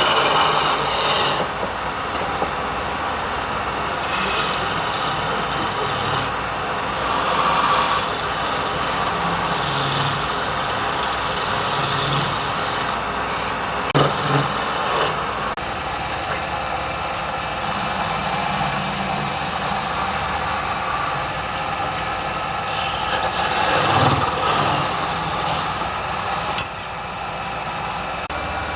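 Wood being worked with a hand or power tool: a steady, rough scraping and rubbing noise, broken by a couple of sharp knocks partway through.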